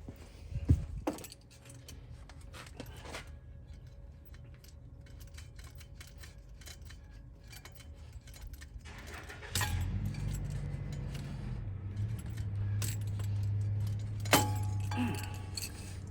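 Metal wrenches and sockets clinking and knocking against the fan and engine parts, with a few sharp metallic knocks. A low steady hum comes in about halfway through.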